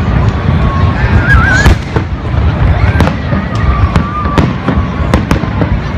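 Fireworks display: aerial shells bursting in quick succession, sharp bangs and crackles over a continuous low rumble. A wavering high tone rises and falls about a second in, with fainter steady tones near the middle.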